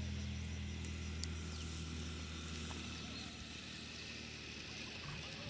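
An engine running with a steady low hum that fades about halfway through.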